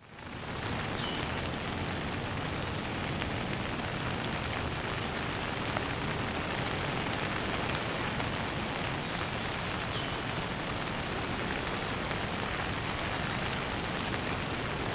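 Steady rain falling, an even hiss that fades in from silence at the start. A few short, faint bird chirps, each a quick falling note, sound now and then over the rain.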